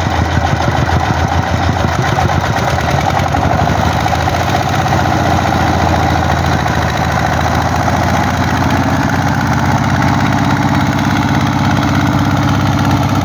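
Single-cylinder diesel engine of a four-wheeled công nông farm vehicle running steadily under load, with a fast, even chugging beat.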